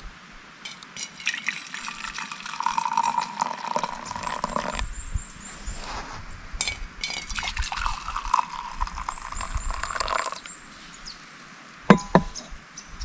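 Liquid being poured into a glass in two pours of a few seconds each, splashing and gurgling, then a single sharp clink near the end.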